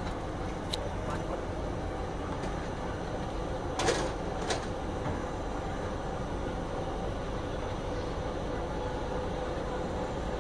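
Passenger train pulling out of a station, heard from an open coach door: a steady rumble of wheels on rail, with two sharp knocks about four seconds in.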